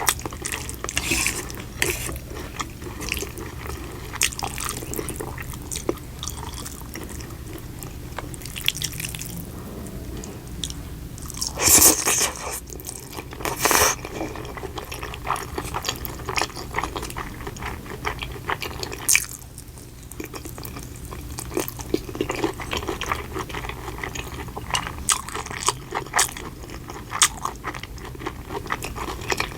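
Close-miked ASMR eating: chewing with wet, clicky mouth noises, with two louder bursts about twelve and fourteen seconds in.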